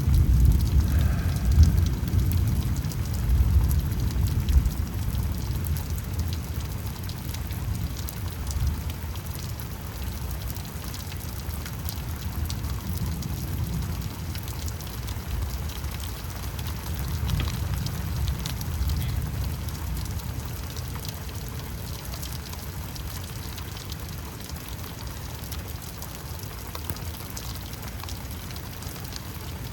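Thunder rumbling over steady rain. It is loudest in the first few seconds and slowly fades, and a second roll of thunder comes about seventeen seconds in.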